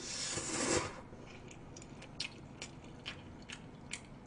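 Noodles slurped in for about a second, then close-up chewing with short wet mouth clicks, about two a second.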